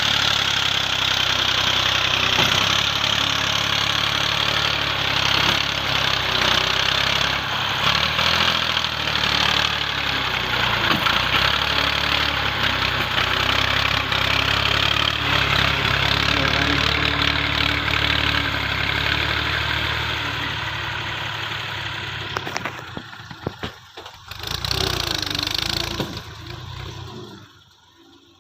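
Massey Ferguson tractor's diesel engine running steadily, then falling away over the last few seconds, with a brief return before it goes almost silent.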